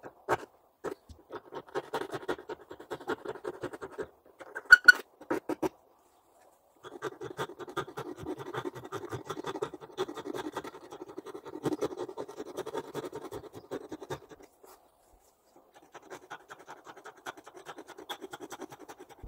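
Fast back-and-forth scrubbing or scraping strokes worked by hand on a grinder part, in three long runs with short pauses. A few sharp knocks come near the start and about five seconds in.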